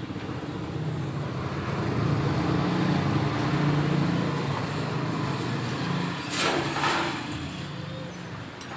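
A motor running with a steady low hum that swells over the first few seconds and eases off later, with two short hissing noises about six and seven seconds in.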